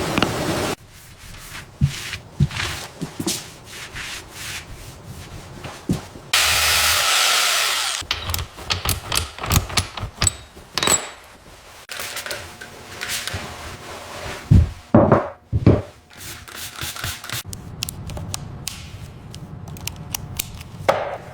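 A string of short hand-work sounds cut one after another: rubbing and scraping, scattered knocks and taps, and a steady hiss for about two seconds some six seconds in.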